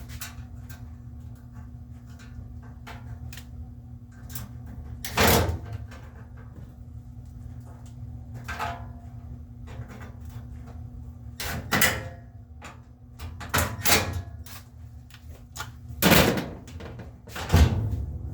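Several scattered knocks and clunks, the loudest two near the end, over a steady low hum.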